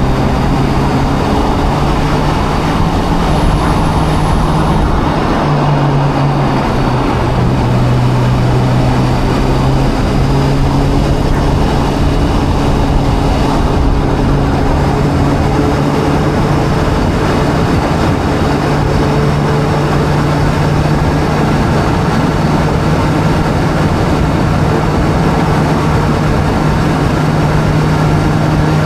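Video-game sport motorbike engine running at steady cruising revs, its pitch stepping slightly up and down now and then, over a constant rush of noise.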